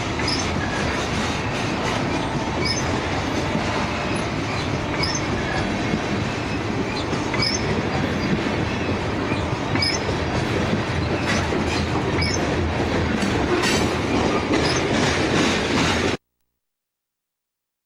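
A freight train of coal hopper cars rolling past close by: a steady rumble and clatter of steel wheels on the rails, with brief high squeaks now and then. The sound cuts off abruptly near the end.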